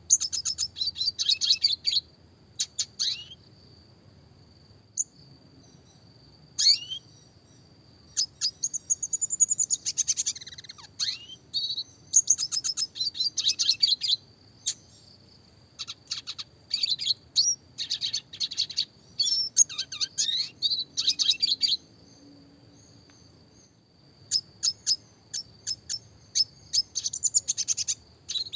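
Red siskin singing in bursts of fast, high twittering phrases. The phrases are made of rapid rolls and sharp chipping notes, with short pauses between them.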